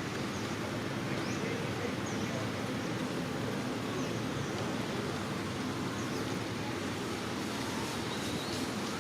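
Steady outdoor background noise, a wind-like rush, with faint, brief high chirps about once a second.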